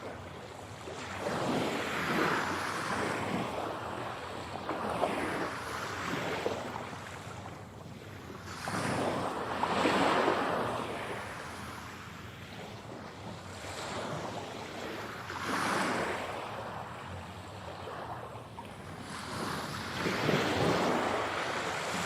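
Sea waves breaking and washing on the shore. The rushing surges swell and fade every few seconds.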